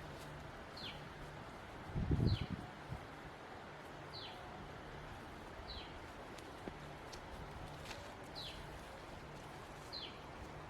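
A bird repeating a short whistle that falls in pitch, six times, about every one and a half to two seconds, over a steady outdoor background hiss. A single loud low thump or rustle close to the microphone about two seconds in.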